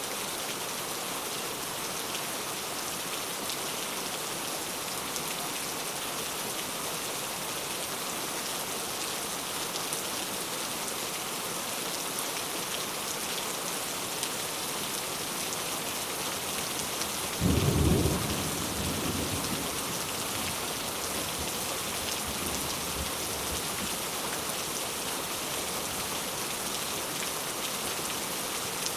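Heavy rain falling steadily. About two-thirds of the way through, a sudden clap of thunder, the loudest thing here, breaks out and rumbles away over a couple of seconds.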